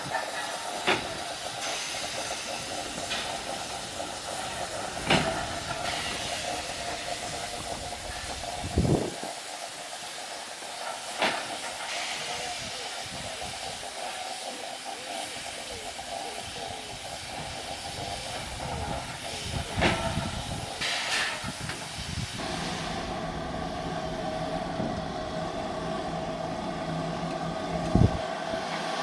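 Steam locomotive hissing steam, with a few sharp knocks here and there. About two-thirds of the way through, the sound changes to a steadier hum.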